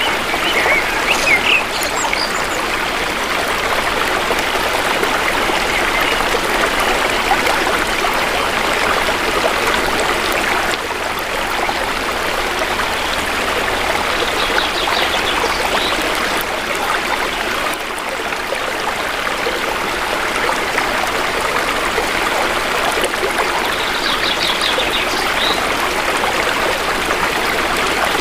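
Shallow river water flowing steadily in a dense, even rush. A few times a bird gives a brief run of high chirps over it.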